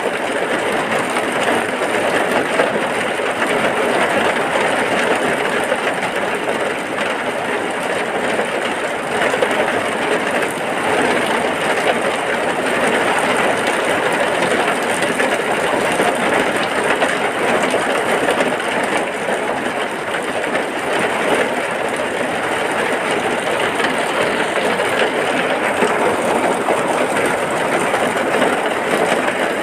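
Heavy rain falling steadily as a dense, even downpour.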